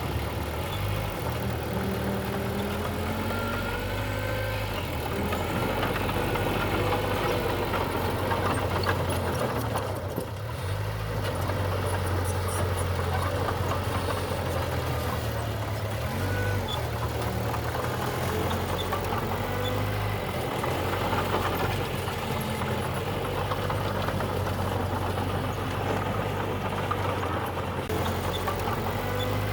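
Heavy diesel engine of earthmoving machinery running steadily under load, with a brief drop in level about ten seconds in.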